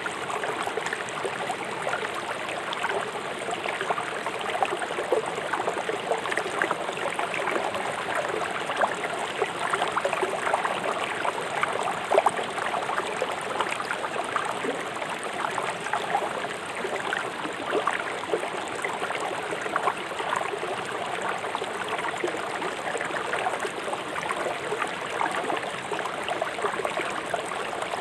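A river rushing swiftly over stones: a steady wash of flowing water with constant small splashes and gurgles.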